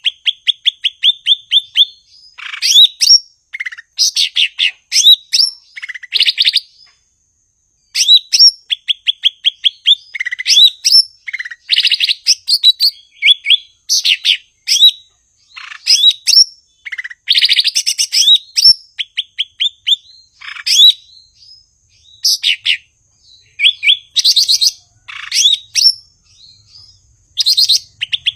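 A cucak ijo (green leafbird) singing loudly in full song. It gives fast runs of repeated chirps and sharp upswept whistles in phrases of a second or two, separated by short pauses.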